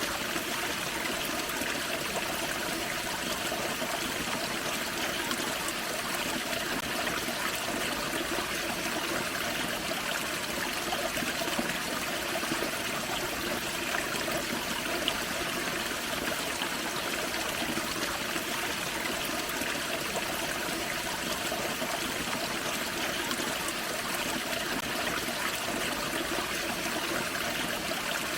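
Forest creek tumbling over a small waterfall: steady rushing and splashing water.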